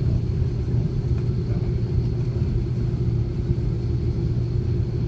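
Steady low rumble of an airliner cabin as the jet taxis to the terminal after landing, engines at idle, with a faint steady high whine above it.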